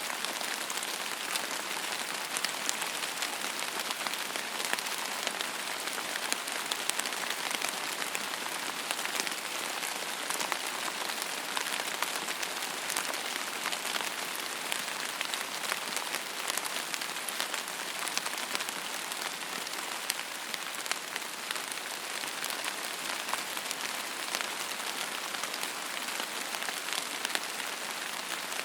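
Steady rain falling on a surface: a dense, even hiss scattered with many sharp ticks of individual drops.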